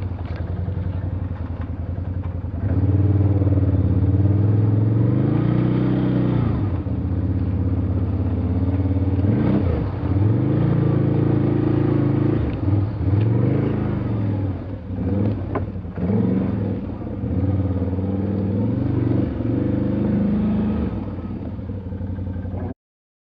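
Quad bike (ATV) engine under load, revved up and down again and again as it works through mud and over bumps. It cuts off suddenly near the end.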